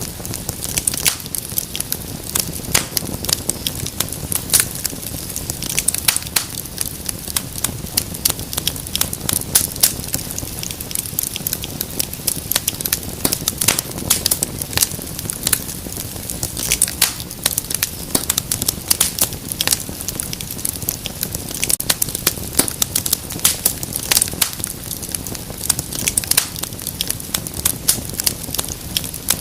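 Wood fire crackling in a fireplace: dense, irregular snaps and pops over a low, steady hiss of burning.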